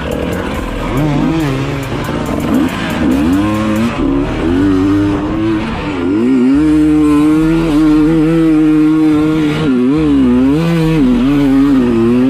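Dirt bike engine revving up and down repeatedly, its pitch rising and falling as it is blipped and held, steadier in the second half.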